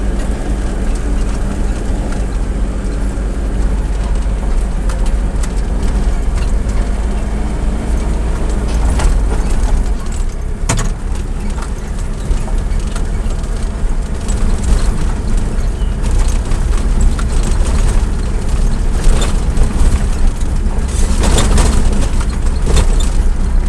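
Motor vehicle under way: a steady low rumble with an engine hum, one sharp click about halfway through, and a louder rush of noise near the end.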